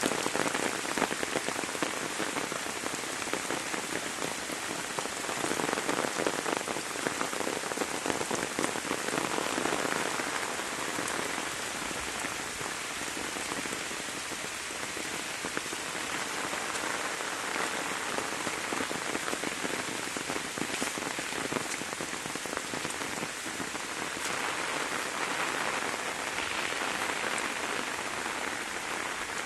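Steady heavy rain falling on surfaces, a dense patter of many drops that swells and eases slightly every few seconds.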